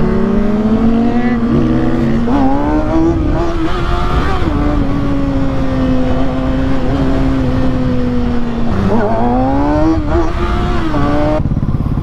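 The inline-four engine of a 600cc sport bike running hard, its pitch rising and falling as the throttle is worked, over steady wind rush. Near the end the engine note drops away.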